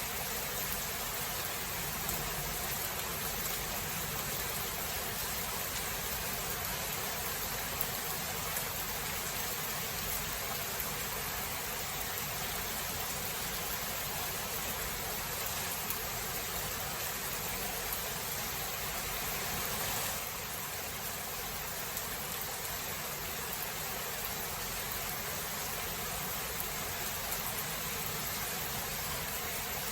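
Steady rain falling, an even hiss with no distinct thunderclap, easing slightly about twenty seconds in.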